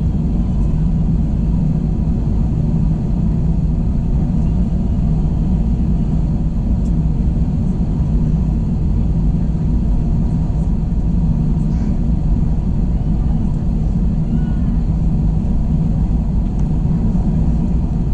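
Steady, even drone of an Airbus A321 in flight, heard inside the cabin: engine and airflow noise with a low hum.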